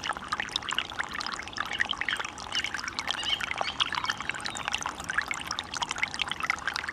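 A small stream running and splashing, a dense steady patter of little bubbling splashes.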